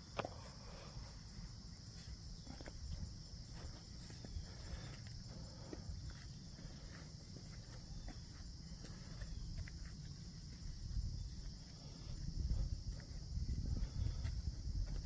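Steady outdoor insect chorus with a constant high-pitched hum, and faint scattered footsteps. A low rumble grows louder near the end.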